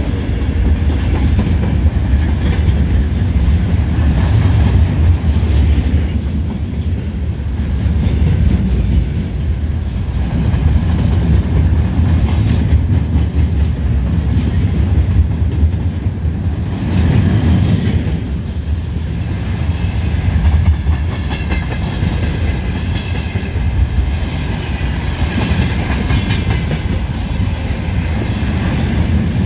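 Freight train wagons rolling past, their wheels clicking steadily over the rail joints with a continuous heavy rumble. A faint, wavering high ringing joins in toward the end.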